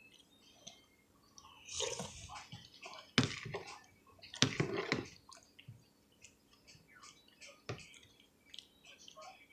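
Close-up eating sounds: wet chewing and slurping of soup, with a few sharp clicks, the loudest about three and four and a half seconds in.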